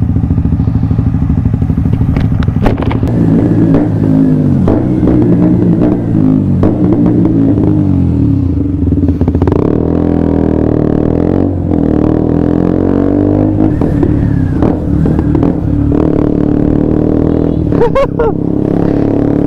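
Motorcycle engine running, heard from the rider's seat. Its pitch rises and falls several times in the first half as the throttle is opened and closed, then it holds a fairly steady note for the rest.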